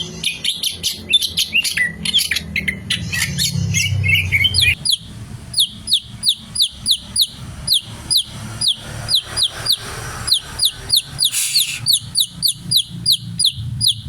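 Green leafbird (cicak hijau) singing: a varied, jumbled warble of chirps and glides for the first few seconds, then from about five seconds in a fast run of repeated sharp, down-slurred notes, about four a second.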